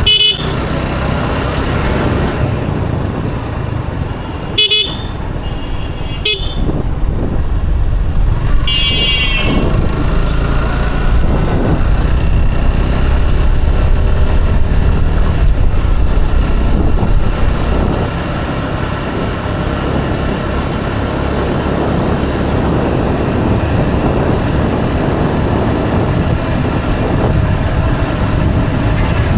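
Motorcycle riding along a road, a steady engine and wind rumble, with about four short horn toots in the first ten seconds.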